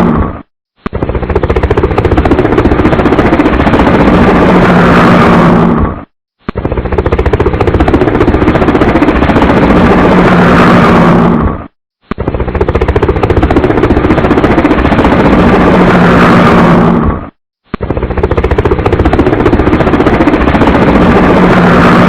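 Helicopter noise, very loud, with a steady low drone under a dense rapid chopping. The same stretch of about five seconds repeats four times, each cut off by a half-second silence.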